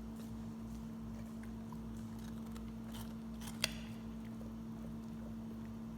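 A Weimaraner chewing a raw carrot, with small crunches and one sharp crunch about three and a half seconds in. A steady low hum runs underneath.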